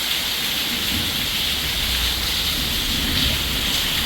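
Hard rain falling steadily, with a low rumble of wind underneath.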